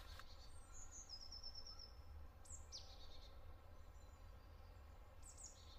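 Faint forest birdsong: a short trill of quickly repeated high notes about a second in, then a few high falling calls in the middle and near the end, over a low steady rumble.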